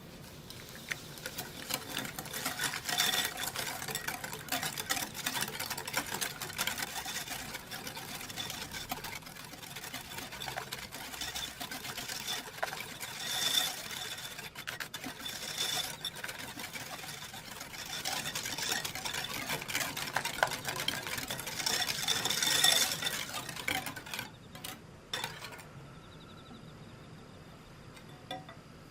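A whisk beating batter in a mixing bowl, a fast run of clicks and scrapes against the bowl. It stops about four seconds before the end, followed by a couple of light knocks.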